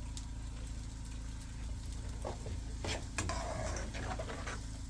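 A steady low hum, with a few sharp clicks and knocks a little past halfway through.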